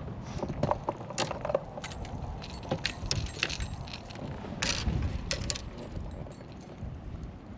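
Fishing tackle being handled: a string of light metallic clicks, clinks and rattles at irregular intervals, as rods and lures are sorted and swapped.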